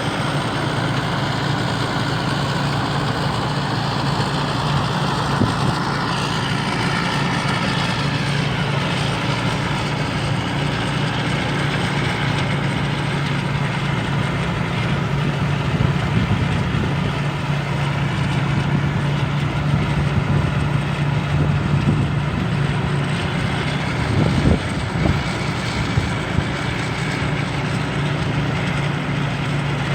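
Combine harvester with a Hino diesel engine running steadily at working speed, a constant engine note with threshing machinery noise over it and a few small knocks about three-quarters of the way through.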